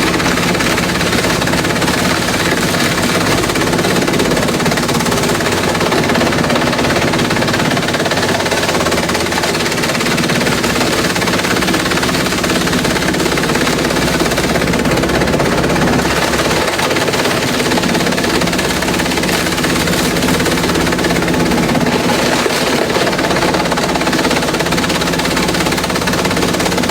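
Industrial bamboo shredder running, a loud, dense, rapid rattling clatter that never lets up.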